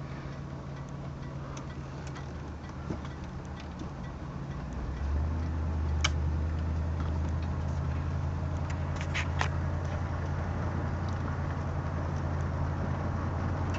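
1973 Pontiac Catalina's V8 engine running as the car is driven, a steady low drone that grows louder about five seconds in and holds there. A few light clicks sound over it.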